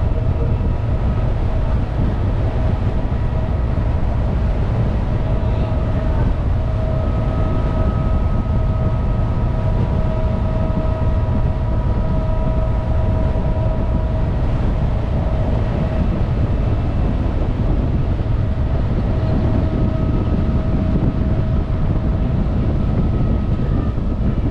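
Ferry's engine running under way, a steady low rumble with faint steady whining tones that fade in and out.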